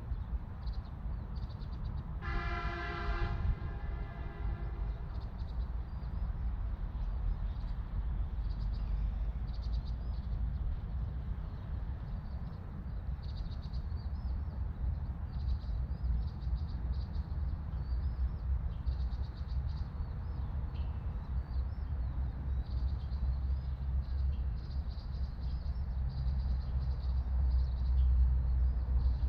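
Birds chirping over a steady low rumble, with one loud pitched blast about two seconds in that lasts about a second.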